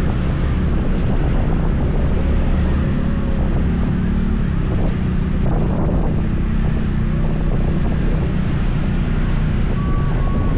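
Motor scooter running steadily while riding, with wind noise on the microphone over the engine and road sound.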